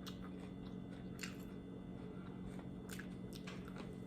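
A person chewing a mouthful of taco close to the microphone, with a few faint clicks and crackles. A steady low hum runs underneath.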